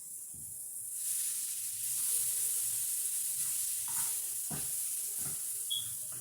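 Food frying in a hot pan: a steady sizzle that swells about a second in, with a few light knocks of a utensil against the pan.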